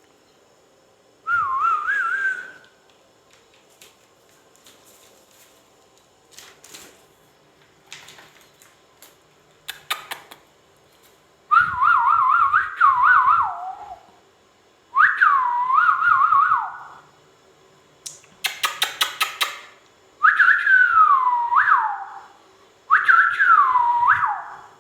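Ringneck parrot whistling: five warbling whistled phrases, the later ones sliding down in pitch at the end. About two-thirds of the way through there is a quick run of sharp clicking chirps.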